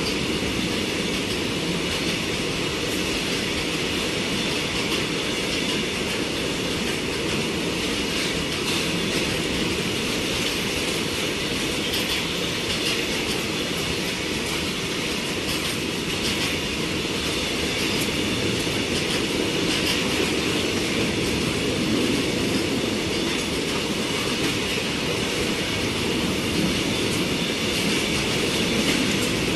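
Indian Railways covered goods wagons rolling past at speed: a steady rumble of steel wheels on rail with a continuous clatter and a steady high metallic ring over it.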